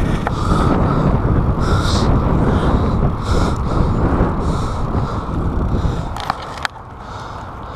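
Wind buffeting the microphone of a chest-mounted action camera on a bicycle at speed, a steady low rumble with a fainter hiss that swells about every second and a half. Two sharp clicks come near the end, and then the wind noise drops.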